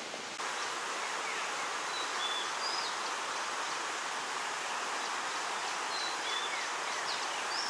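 Outdoor hillside ambience: a steady hiss of water or insects, with short bird chirps and whistles several times.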